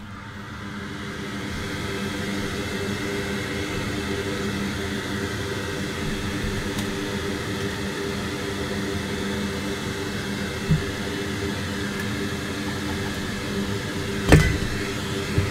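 Benchtop solder fume extractor fan spinning up over the first couple of seconds, then running with a steady whir and hum. There is a small knock near the middle and a louder knock near the end.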